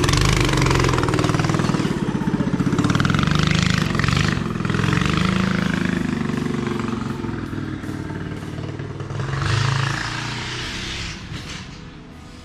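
Small mini bike engine running at speed, its pitch rising and falling with the throttle. It is loud at first and fades as the bike moves away, with a brief swell near the end.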